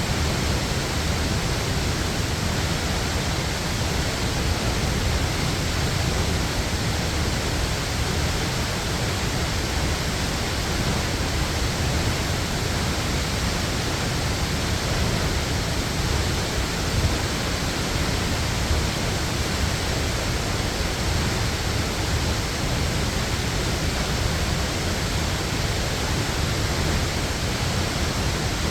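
Waterfall, a steady, even rush of falling water with no breaks.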